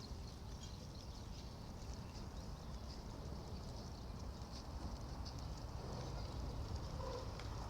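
Flock of sheep moving, with scattered faint hoof clicks and a short faint bleat about seven seconds in, over wind rumble on the microphone.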